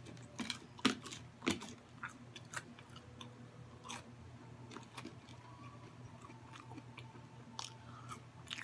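Biting and chewing crunchy fried food: sharp crunches come thick and fast in the first couple of seconds, then a few scattered ones follow.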